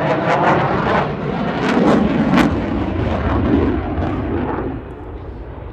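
Eurofighter Typhoon FGR4's twin turbofan jet engines, loud as the fighter displays overhead, with several sharp crackles in the noise, dying away about five seconds in.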